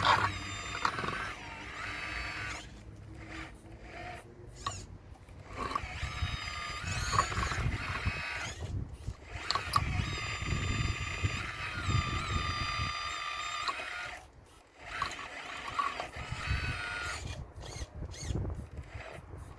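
Radio-controlled scale Caterpillar excavator working, its motors whining and shifting in pitch as the machine moves, over a low irregular rumble of stones being moved. The whine drops away briefly about two-thirds of the way through, then starts again.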